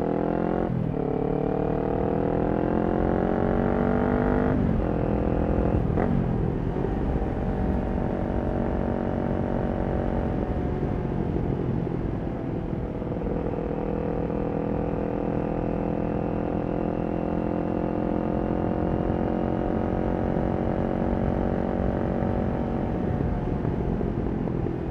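Kawasaki Ninja 400's parallel-twin engine through a Yoshimura exhaust, under way. It revs up with two quick upshifts in the first five seconds, then holds a steady cruise that slowly climbs before the throttle eases off near the end.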